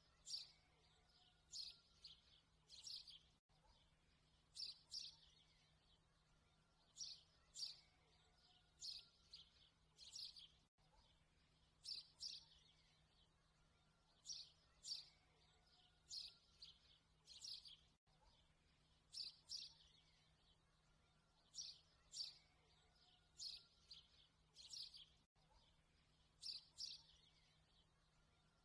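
Faint looped recording of small birds chirping in short clusters of two or three high chirps, the same pattern repeating about every seven seconds.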